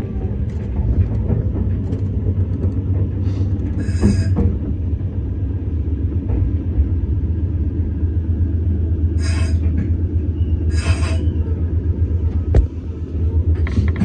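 Meitetsu 6800 series electric train running along the rails as it draws into a station, a steady low rumble heard from inside the driver's cab. Three brief higher-pitched squeals sound over it, about four, nine and eleven seconds in.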